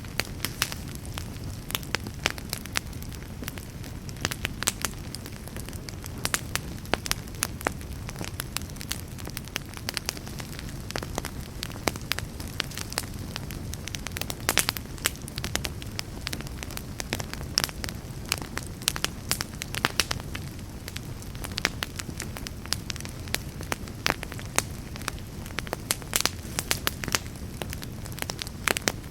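Wood fire burning in a fireplace: frequent sharp crackles and pops over a low, steady rumble of the flames.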